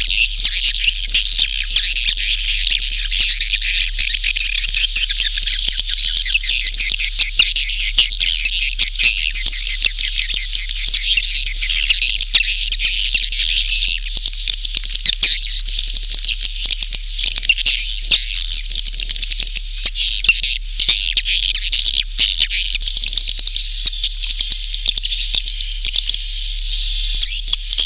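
Recorded calls of a dense flock of edible-nest swiftlets: a continuous high-pitched twittering chatter dotted with sharp clicks, over a low hum. It is a swiftlet lure sound of the kind played in swiftlet houses to draw birds in to nest.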